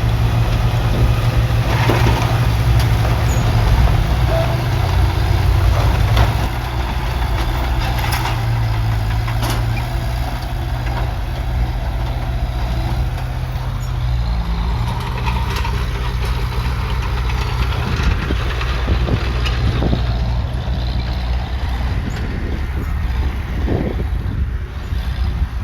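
Heavy diesel earthmoving machine running steadily under load, with its engine pitch dipping slightly about halfway through and scattered metallic clanks and knocks.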